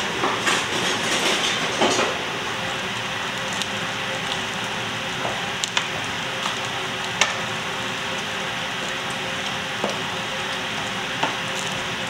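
Food frying in a pan: a steady sizzle with scattered sharp clicks, busier during the first two seconds.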